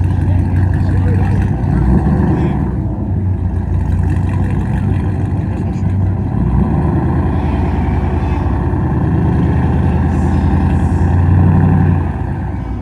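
Car and truck engines revving hard in a rev battle, held at high revs for long stretches with the pitch rising and falling, easing off near the end.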